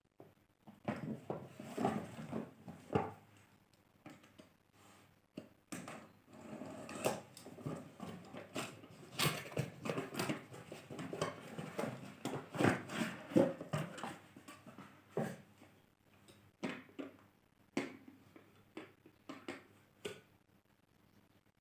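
Irregular knocks, clicks and rustles of a plastic coffee maker and its packaging being handled, parts taken out and fitted together.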